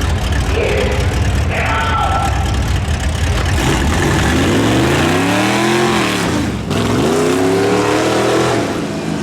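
Stock-class truck's engine revving hard, its pitch climbing and falling back twice, about four seconds in and again about seven seconds in.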